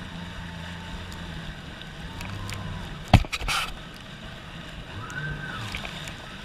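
Jet ski engine running at low speed, with water sloshing against the hull. A sharp knock about three seconds in is followed by a short rush of noise.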